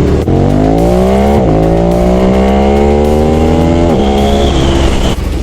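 Motorcycle engine accelerating hard: the revs climb, drop at a gear change about a second and a half in, climb again, and drop at another gear change near four seconds before holding steady.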